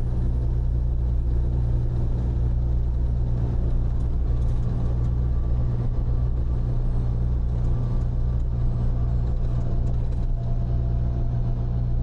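Freightliner semi-truck's diesel engine and tyres heard from inside the cab at highway cruising speed: a steady low drone with road rumble.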